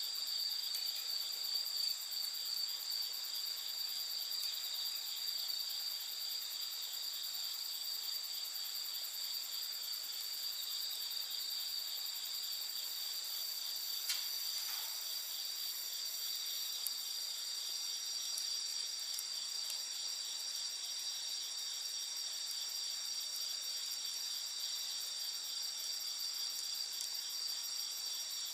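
A steady chorus of crickets chirping in high, continuous trilling bands, with a couple of faint sharp pops from the wood fire about halfway through.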